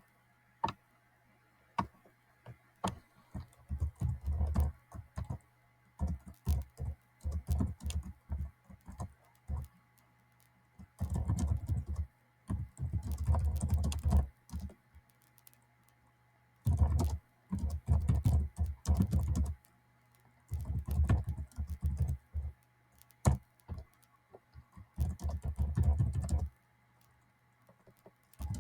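Typing on a computer keyboard in runs of quick keystrokes lasting a second or two, with short pauses between runs, over a faint steady hum.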